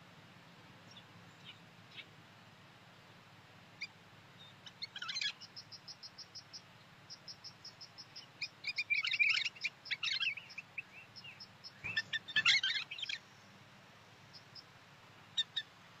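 Small songbirds calling. Scattered single chirps give way to quick runs of short high chirps, with several louder bursts of chattering calls in the middle.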